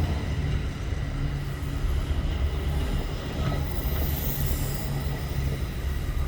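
EXO commuter train hauled by an ALP45DP locomotive running through the station, with a steady low engine drone and rolling rumble. A thin, high wheel squeal rises about four seconds in.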